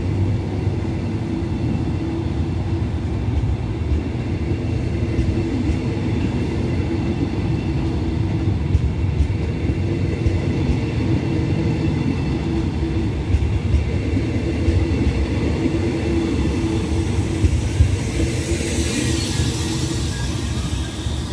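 Passenger train's coaches rolling slowly past as it pulls out of the station: a steady rumble of wheels on rail with occasional clicks. Near the end a hiss rises as the last car goes by.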